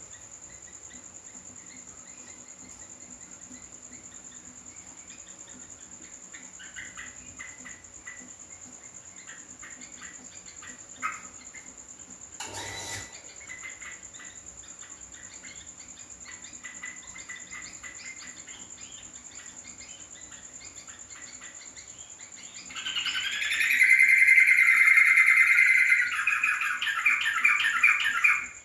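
A yellow-vented bulbul (trucuk) calls: scattered soft chirps, then a loud burst of bubbly, warbling song near the end. A steady high insect-like whine sounds underneath, and there is a single click about midway.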